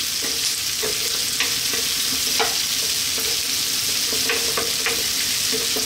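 Onion, garlic and bay leaves sizzling in hot oil in a wok, with a steady frying hiss. A wooden spatula stirs them, scraping and tapping against the pan at irregular moments.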